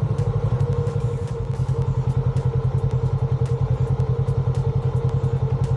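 A side-by-side UTV's engine running at a steady speed, with a fast, even pulsing exhaust note, and light ticks and rattles over it.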